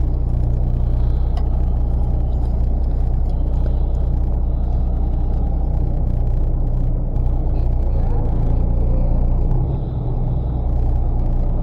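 Fishing boat's engine running steadily: a constant low drone and rumble.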